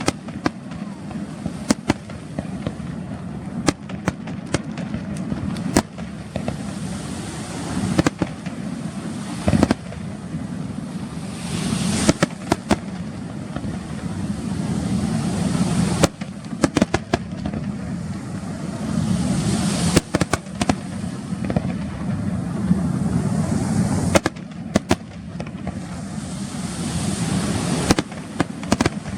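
Fireworks display: aerial shells going off in sharp, irregular bangs, several at a time, with swells of crackling in between over a steady low rumble.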